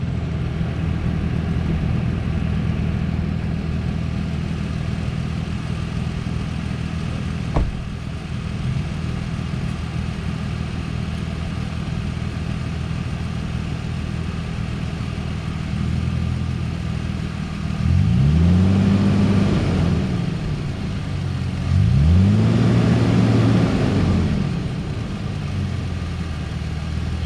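Off-road vehicle's engine running steadily at low revs, revved twice near the end, each rev rising and falling in pitch over about two seconds. One sharp knock sounds about a quarter of the way in.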